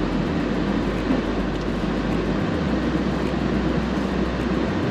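Steady rushing noise inside a car's cabin: the heater blower running at full on the windscreen demist setting, over a low engine and road rumble.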